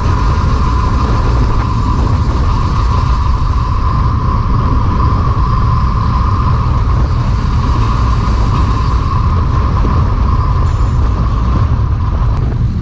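Wind buffeting the microphone of a camera riding along on a road bike, a loud, steady rumble with a constant mid-pitched hum over it.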